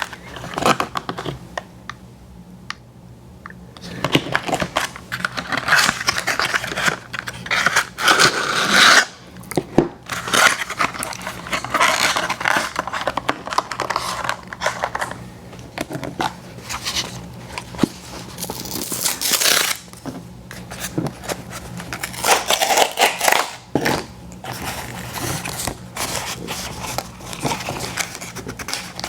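Paper and cardboard food packaging being torn open and crinkled close to the microphone, in irregular rustling bursts with small scrapes and clicks, over a faint steady low hum.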